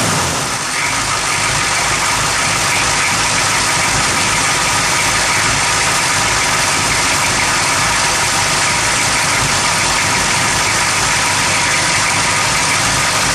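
Engine idling roughly, running steadily with a fast low pulsing of its firing strokes: the rough idle is the fault being shown.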